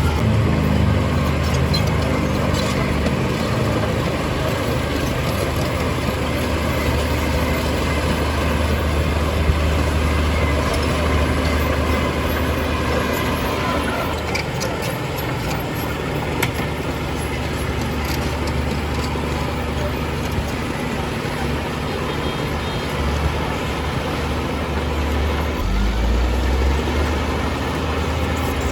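Heavy diesel engine of earth-moving machinery running steadily under load, revving up at the start and again near the end.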